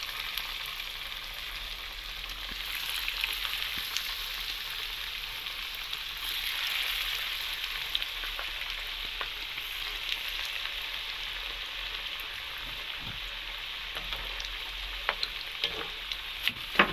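Breaded chicken cutlets frying in hot oil, sizzling steadily, with a few sharp clicks near the end.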